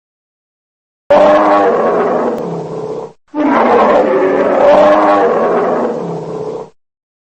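A large animal calling with two long, loud, roaring calls of wavering pitch, about two and three seconds long and separated by a brief gap. Each starts and stops abruptly, with dead silence before and after.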